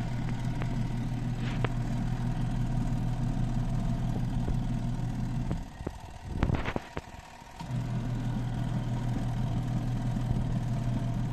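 Mini washing machine motor running with a steady low hum, stopping for about two seconds partway through with a couple of knocks, then starting again.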